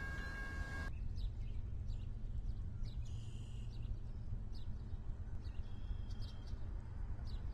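Birds chirping in short, scattered calls over a steady low rumble, with a brief buzzy trill about three seconds in. A steady chord of high tones cuts off suddenly about a second in.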